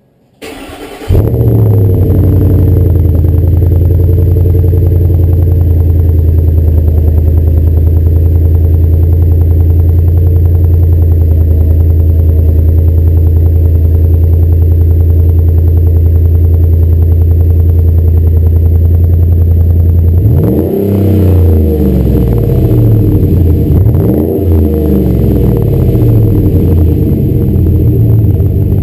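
The 2012 Raptor's engine starts through its MBRP aftermarket exhaust and settles into a steady, deep idle. Over the last third it is revved in several quick blips, each rising and falling back to idle.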